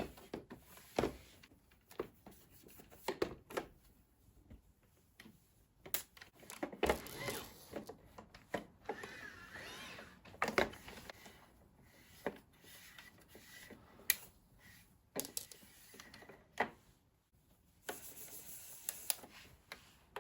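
Irregular clicks, taps and knocks of plastic parts being handled, with a stretch of soft scraping in the middle, as a robot vacuum's dustbin and water tank unit is worked on.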